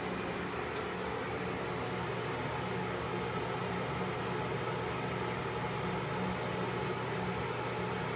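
Vintage Broan bathroom exhaust fan running steadily: an even motor hum with a rush of air noise.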